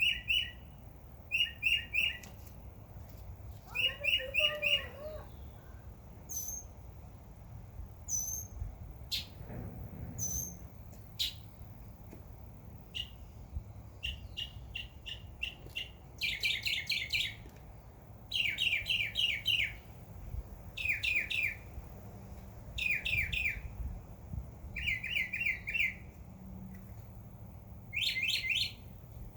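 Songbirds chirping: short, rapid runs of chirps repeated every second or two, with thin, high single notes in between.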